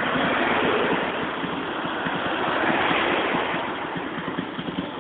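Harley-Davidson V-twin motorcycle engine running with the bike standing still, its exhaust beat under a loud rushing noise that swells about half a second in and again around three seconds.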